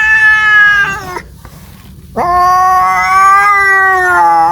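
Domestic cat yowling in two long, drawn-out calls. The first ends about a second in; the second starts about two seconds in and is still going at the end.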